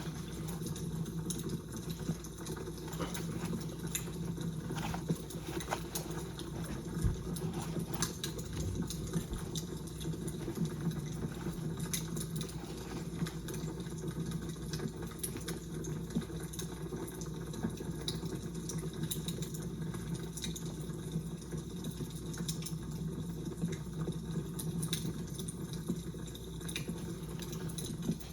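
Fire crackling: irregular small pops and snaps over a steady low rumble.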